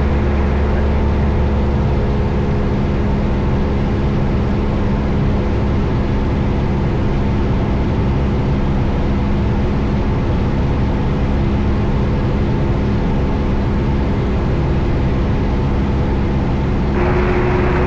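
Steady drone of a Cessna 172 Skyhawk's four-cylinder Lycoming engine and propeller heard inside the cabin in flight, holding an even pitch during a descent. Near the end a short burst of hiss comes in over it.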